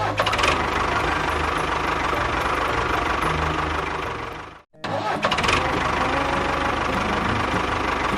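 Engine running steadily with a fast, even knocking beat. It starts abruptly, cuts out for a moment about four and a half seconds in, then picks up again.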